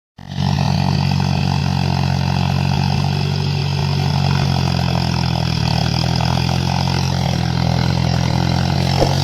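John Deere four-wheel-drive tractor engine running steadily, starting a fraction of a second in.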